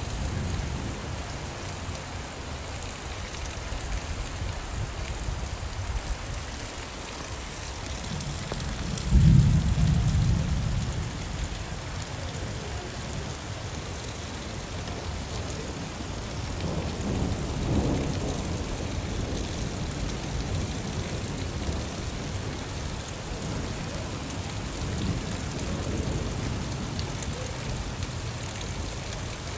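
Steady rain falling, with rolling thunder: a loud low rumble about nine seconds in that fades over a couple of seconds, and a softer rumble a little past halfway.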